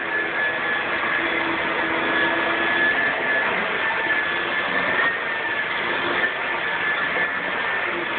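Vacuum cleaner running steadily: a high motor whine over rushing air.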